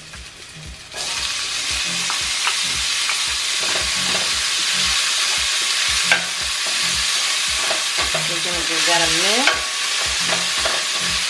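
Chopped green onion and garlic sizzling in hot oil in a stainless steel sauté pan. The frying gets louder about a second in as they hit the pan. A wooden spoon stirring them clicks and scrapes against the pan, with a brief rising squeak near the end.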